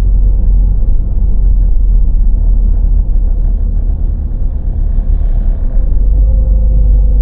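Car driving on the road: a loud, steady low rumble of road and engine noise with a thin constant hum running through it.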